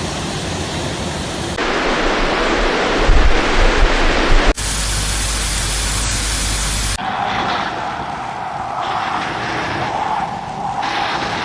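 Steady rushing noise of floodwater and heavy rain, in several clips cut abruptly together about one and a half, four and a half and seven seconds in; the loudest clip has a deep rumble under the rush, and the last one carries a steady hum.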